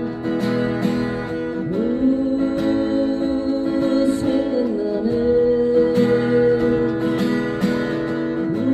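A man singing a slow ballad line in long held notes over a strummed acoustic guitar.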